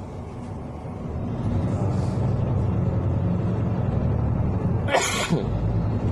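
City bus interior: the engine and road rumble run steadily and grow louder about a second in as the bus pulls away. Near the end there is one short, sharp burst of hiss.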